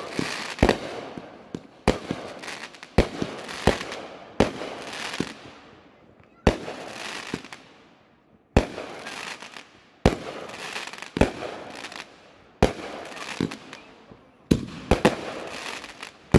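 Aerial fireworks bursting one after another, a sharp bang every second or so, each followed by a fading crackle of sparks.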